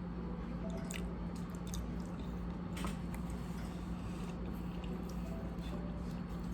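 Close wet chewing and mouth sounds of someone eating, with scattered small smacks and clicks, over a steady low hum.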